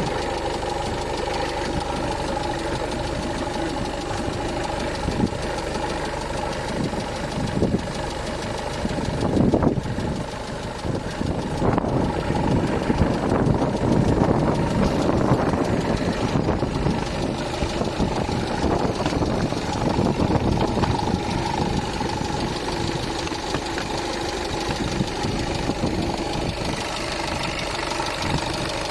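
Skoda Superb 3's 1.6 TDI four-cylinder diesel engine running with a knock, which the owner takes for a knocking hydraulic valve lifter. It grows louder for a stretch in the middle, then settles back.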